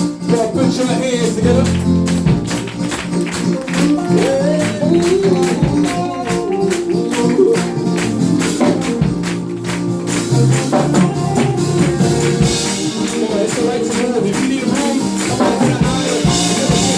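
Live gospel praise-and-worship music with tambourine shaking and striking through it, over a band with keyboard and bass.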